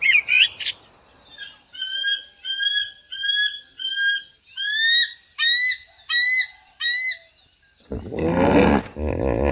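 A bird calling: a few quick chirps, then the same short, clear call repeated about nine times at an even pace. Near the end, a loud, low, rough call from a larger animal cuts in.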